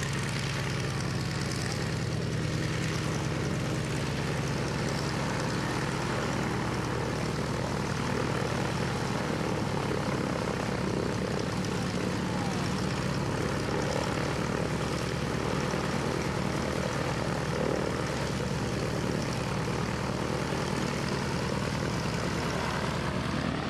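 Boeing Stearman biplane's radial engine and propeller running in flight, a steady, unbroken drone with no rise or fall in level.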